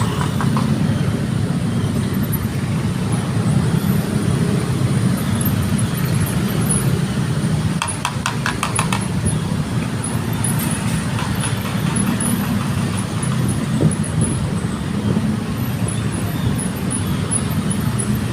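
Steady low rumble of road traffic and a running car, with a short run of rapid clicks about eight seconds in.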